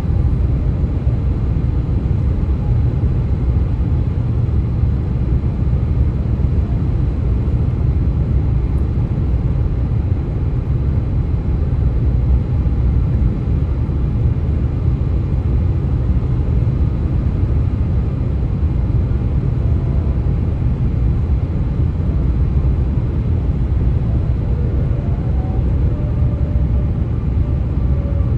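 Steady low rumble of highway road and vehicle noise on US-127, even throughout, with a faint thin high tone above it. Faint wavering tones come in near the end.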